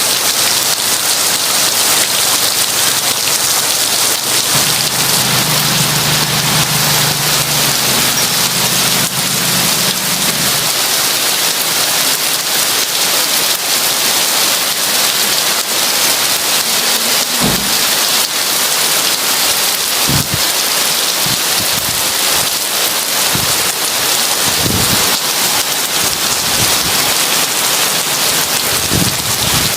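Heavy rain falling in a steady, loud hiss, with a low roll of thunder rumbling through the first third. Several short low thuds come in the second half.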